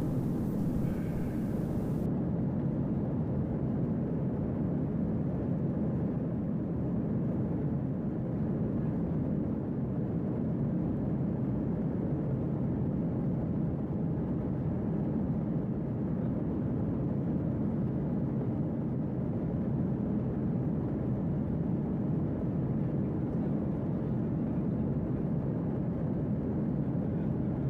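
Airliner cabin noise in cruise: the steady low rumble of the jet engines and airflow, heard from inside the cabin.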